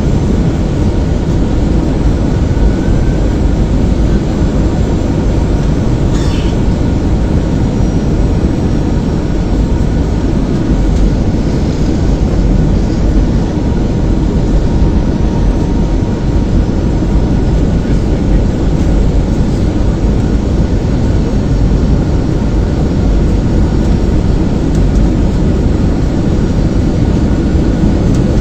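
Jet airliner cabin noise: a loud, steady roar of engines and airflow heard from inside the passenger cabin in flight, with a faint steady hum riding on it.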